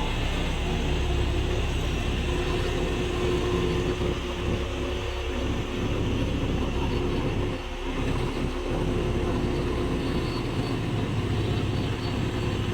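Diesel engine of heavy earthmoving machinery running steadily, a low rumble that briefly eases about five and eight seconds in.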